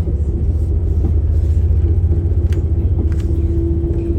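Cabin running noise of a diesel passenger train under way: a steady low rumble, joined about halfway through by a steady humming tone.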